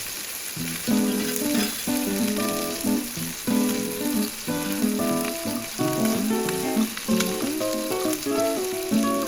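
Food sizzling as it fries in a pan, a steady hiss, under background acoustic guitar music.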